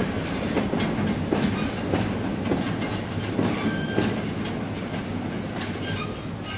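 Freight train wagons rolling slowly with irregular clanks and knocks, under a loud, steady, high-pitched chorus of cicadas.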